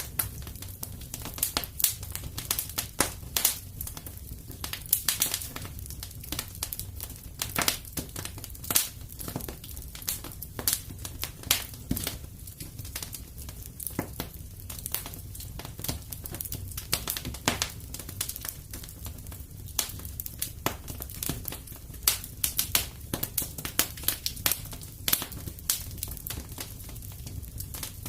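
Fire burning in a fireplace, crackling with irregular sharp pops over a low steady rumble.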